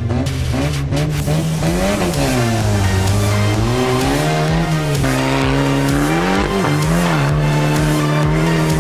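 Off-road racing vehicle engine revving, its pitch repeatedly dropping and climbing as it accelerates and lifts, with background music underneath.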